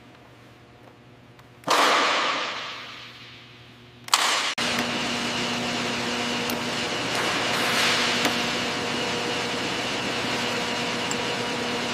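A sudden loud rush of noise that fades away over about two seconds. About four seconds in, a steady mechanical rushing noise with a hum starts abruptly and runs on unchanged: a machine running.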